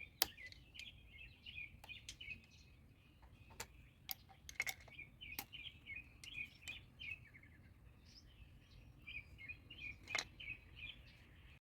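Small birds chirping steadily in quick, high twittering calls, with scattered sharp clicks or taps, the loudest about a second in and near the end. The sound stops suddenly just before the end.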